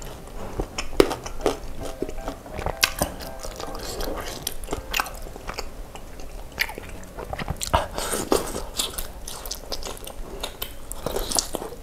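Close-up mouth sounds of chewing and biting baso aci tapioca balls and broth-soaked crackers, with many short clicks and a little crunch.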